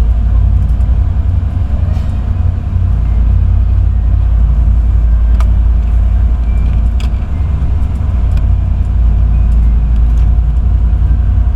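Loud, steady low drone of a high-speed passenger ferry's engines, heard on board, with a few faint clicks.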